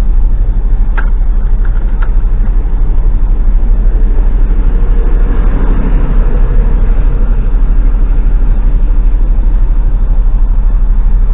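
Diesel engine of an HGV lorry idling, heard from inside the cab: a steady low rumble. A brief swell of noise rises and fades about halfway through.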